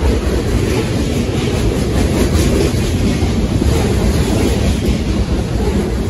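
A train passing close by: a steady loud rumble of wheels on rail, with occasional faint clicks as the wheels cross rail joints.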